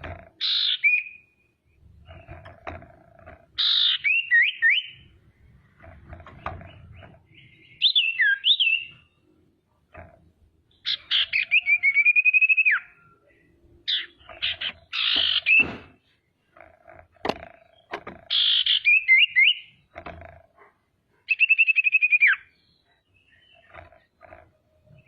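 Female common iora (sirtu, cipoh) singing: about seven loud bursts of short whistled notes and fast, rattling trills, every three seconds or so, with a few sharp clicks between.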